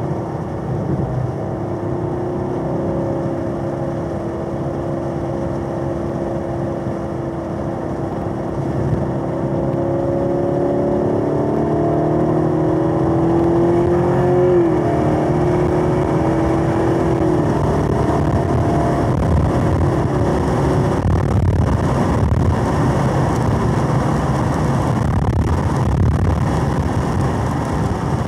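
Camaro SS 1LE's LT1 6.2-litre V8 heard from inside the cabin, pulling hard in third gear with a steadily rising pitch for about fourteen seconds. The 10-speed automatic then makes two quick upshifts, each dropping the pitch. After that the engine settles to a low cruise under steady road noise.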